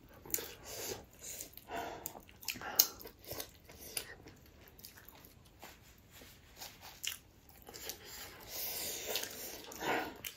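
Close-up eating sounds of a person chewing and biting food, a run of short, irregular mouth clicks.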